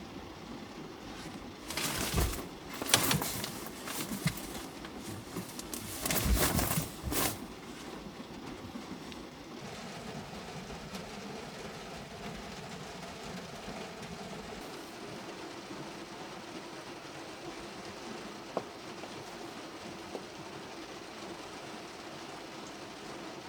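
Steady rain drumming on the car's roof, with a few short, loud handling or rustling noises in the first seven seconds.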